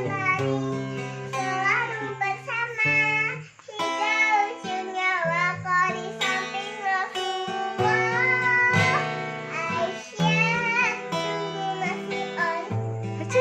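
A young girl singing a slow, gliding melody over guitar accompaniment, with a short break in the sound about three and a half seconds in.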